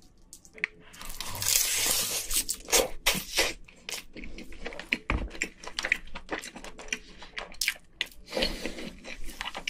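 Roasted seaweed crunching loudly for about a second as a seaweed-wrapped bite of rice is taken. Close-miked chewing follows, with many small crunches and wet mouth clicks.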